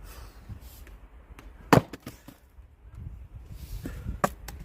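Axe striking a log while splitting firewood: one sharp, loud chop about two seconds in, and a lighter knock near the end.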